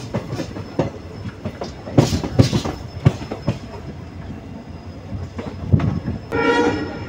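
Passenger train coach wheels knocking and clacking over the rails at running speed, heard at an open coach door. About six seconds in, the locomotive's horn starts a held blast.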